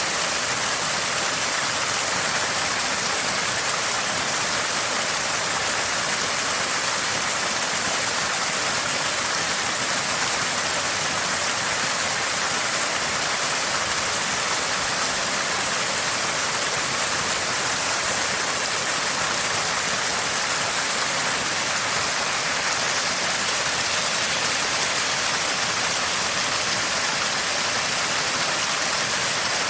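Small spring gushing and burbling in a steady stream of running water.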